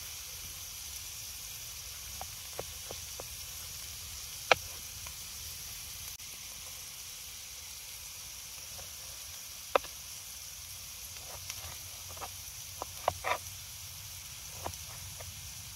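Food frying in a pan, a steady sizzle with a few sharp pops or taps, the loudest about four and a half seconds in, near ten seconds, and a quick cluster around thirteen seconds.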